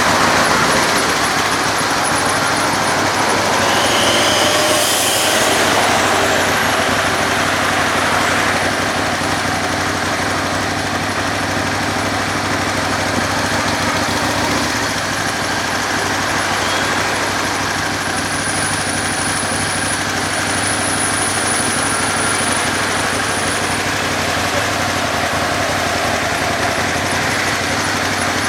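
Motorcycle engine running steadily amid city traffic noise, with a thin high whine for a few seconds about two-thirds of the way through.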